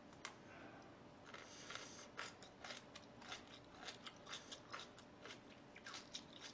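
Close-miked chewing and biting of food, a run of quiet, crisp crunches starting about a second and a half in.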